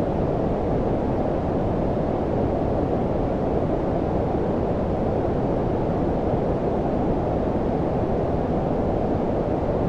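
Steady synthetic low-frequency noise, like brown noise: an even, deep rumbling hiss with most of its weight below about 1 kHz and little treble, unchanging throughout.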